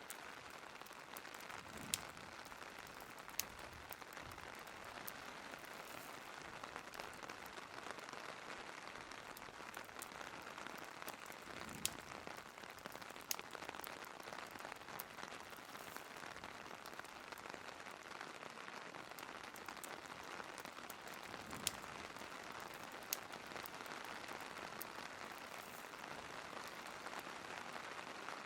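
Steady rain hiss mixed with a crackling fireplace, with a few sharp loud pops, in pairs about a second and a half apart, standing out above the rain.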